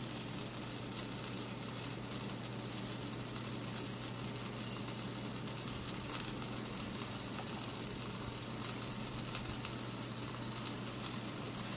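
Steady sizzle of butter-toasted msemen stuffed with cheese frying in a covered pan.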